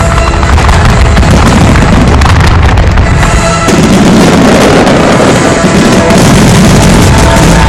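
Loud fireworks bursting and crackling in quick succession over music playing from loudspeakers, part of a fireworks show set to music. The crackle grows denser about halfway through.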